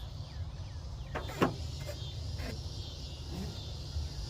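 A hose clamp being handled and slid onto a rubber heater hose: a few light clicks, the loudest about a second and a half in. A steady low hum and a high insect chirring run underneath.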